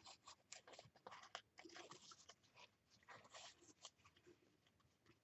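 Faint rustling, crinkling and light taps of paper pieces being handled and laid down on a page, in short scattered bursts.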